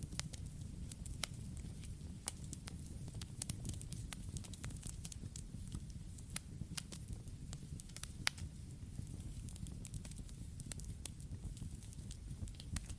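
Campfire crackling: burning wood giving off irregular sharp pops and snaps over a steady low rumble, with one louder pop about eight seconds in.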